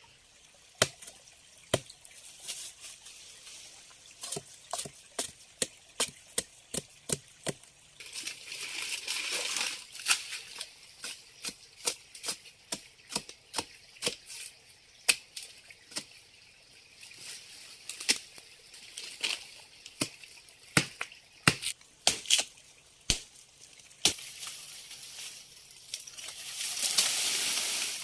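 Chopping with a blade: a long run of sharp knocks at an uneven pace, several a second at times, with two spells of hissing noise, about a third of the way in and near the end.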